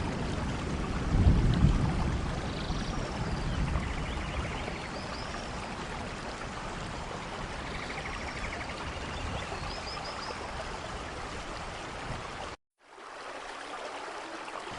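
Steady rain with a low rumble of thunder swelling about a second in, and a few faint high chirps over it. Near the end the sound cuts out completely for a moment, then the rain resumes thinner.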